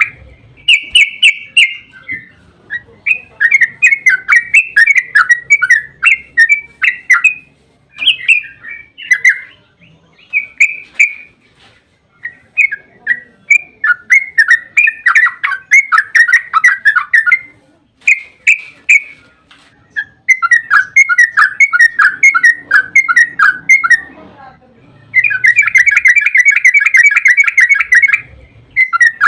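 Yellow-vented bulbul (trucukan) singing loudly: phrase after phrase of rapid chattering notes with short pauses between, and a long unbroken fast run near the end. This is its long rapid-fire 'ropel' song, used as a lure call to make other bulbuls answer.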